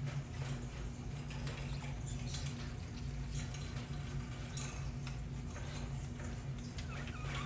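Budgerigars giving scattered short chirps and clicks over a steady low hum.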